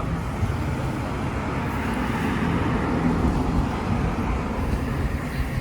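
Steady rumbling background noise.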